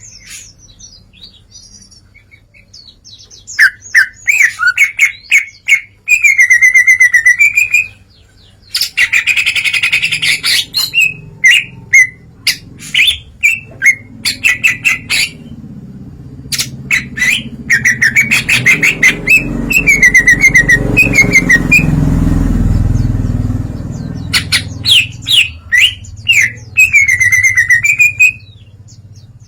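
Cucak ijo (green leafbird) singing loudly through its repertoire of mimicked calls: rapid sharp chips and warbled phrases, broken by short pauses. A low rumble swells in the middle and drops away about two-thirds of the way through.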